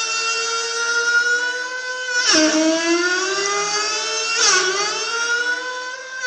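Faulty water tap giving off a loud, pitched whine with many overtones, slowly rising in pitch, then dropping suddenly and climbing again twice, like an engine revving up through the gears ('vroom vroom').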